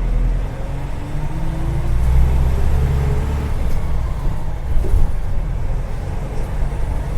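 Agrale-chassis micro-bus running, heard from inside the cabin: a steady low engine drone, with a whine that rises in pitch over the first few seconds as the bus picks up speed.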